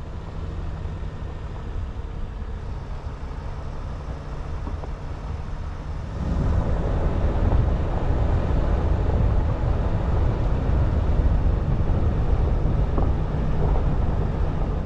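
Road and engine noise heard from inside a moving vehicle: a steady low rumble that grows louder and fuller about six seconds in, as the vehicle speeds up or the road gets rougher.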